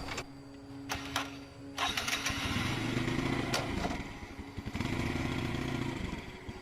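Motorcycle engine running, getting louder about two seconds in, easing off briefly past the middle and picking up again. Two sharp knocks come just before it grows louder.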